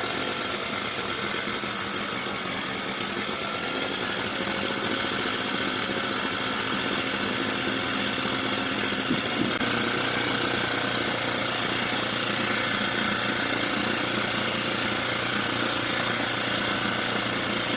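Mercury 4–5 hp outboard motor running steadily at a fast idle, set too high. A short click comes about halfway through, after which it runs a little louder.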